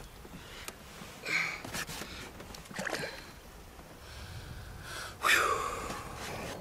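A man's short, breathy gasps and grunts, three in all, the last and loudest about five seconds in with a falling pitch: an angler's effort noises while hooking and fighting a largemouth bass.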